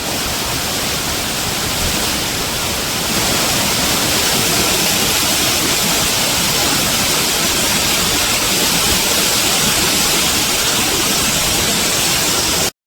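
Waterfall: a steady, loud rush of falling water that gets a little louder about three seconds in and stops abruptly near the end.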